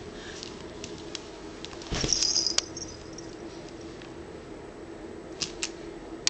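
Wet sucking and smacking noises made with the mouth: scattered small clicks, with one louder, squeaky suck about two seconds in.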